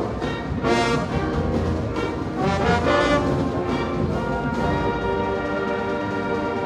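High school marching band brass playing loud swelling chords, settling into one long held chord about two-thirds of the way through.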